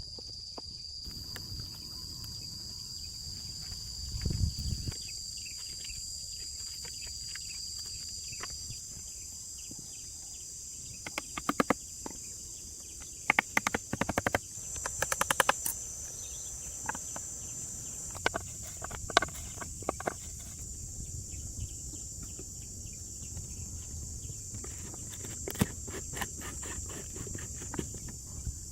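Steady high-pitched drone of insects, with scattered sharp knocks and clicks in clusters through the middle and again near the end, and one low thud about four seconds in.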